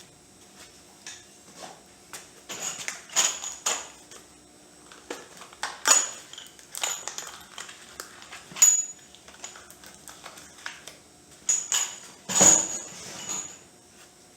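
Irregular clinks and knocks of hard, metal-sounding objects being handled. There are a dozen or so sharp strikes with a short ring, the loudest a little after halfway and about twelve seconds in.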